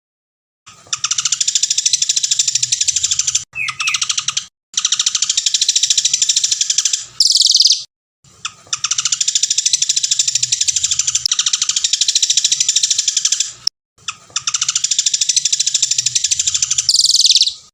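A songbird singing long, very rapid trills of fast-repeated high notes, in stretches of a few seconds, two of them ending in a loud upward sweep. The song cuts off abruptly to silence between stretches, as in an edited, looped recording.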